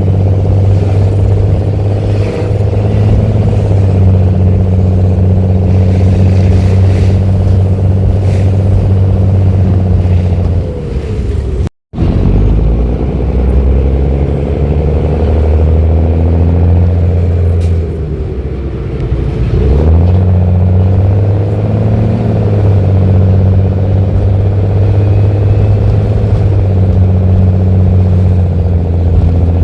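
Mercedes-Benz OH-1318 bus's inline-six diesel running through a free-flowing (straight) exhaust, loud and deep under way. The sound cuts out for an instant near the middle, and later the engine note drops and then climbs again.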